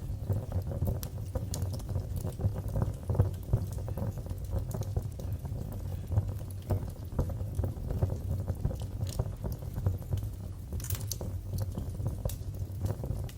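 Fireplace fire crackling steadily over a low rumble of flames, with a few louder, sharper pops about eleven seconds in.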